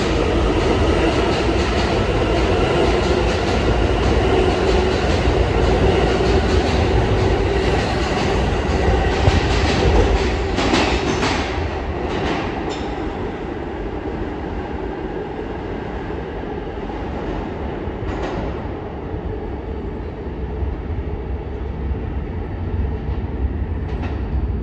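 R160 subway train running at speed, heard from inside the car: a steady heavy rumble of wheels on rail with a few clicks over rail joints. It is louder for the first ten seconds or so, then eases off.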